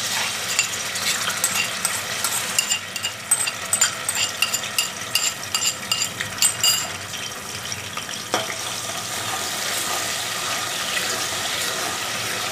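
Ginger-garlic paste sizzling in hot oil with fried cumin seeds in a metal pot, dense crackling and clicks for the first several seconds, then settling into a steadier sizzle.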